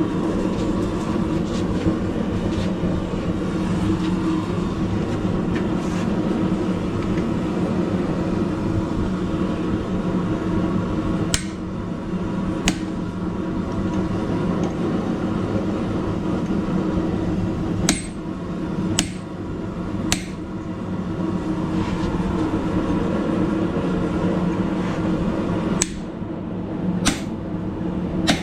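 About eight hammer blows on steel at the anvil, each with a bright ring, coming in small groups of two or three: hot steel being cut off on a hot cut hardy. Under them runs a steady low drone.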